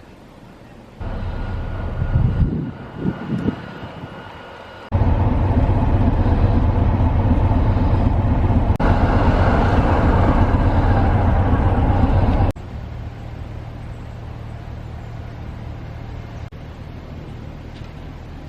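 Diesel locomotive engine running with a steady low rumble. It comes in several abruptly cut sections: it jumps louder about five seconds in and drops to a softer hum about twelve seconds in.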